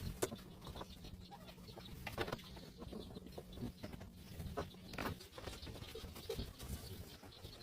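Faint scattered clicks, taps and light scraping from hand-cleaning a washing machine, with a low steady hum that stops about five seconds in.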